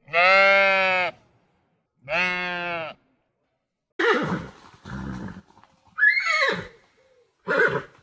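Sheep bleating twice, two long steady calls, the first louder. Then a horse or pony calling in four shorter, rougher bursts, one falling steeply in pitch about six seconds in.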